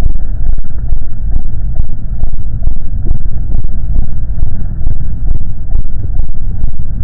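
Royal Enfield Classic 350's single-cylinder engine running with its slow, even thump, the beats coming about two to three a second over a deep rumble.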